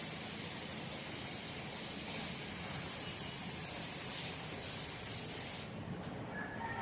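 Paint spray gun spraying topcoat with a steady airy hiss, cutting off near the end.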